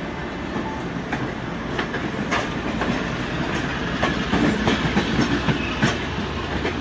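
Two passenger trains running side by side on parallel tracks: the steady rumble of steel wheels on rail, with irregular clickety-clack clicks over the rail joints, growing slightly louder.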